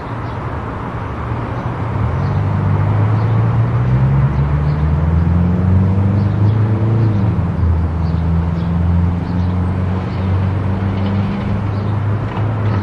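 A car driving on a highway: steady road and tyre noise with the engine note, which climbs in pitch for a few seconds and then drops sharply about seven seconds in, like a gear change, before holding steady.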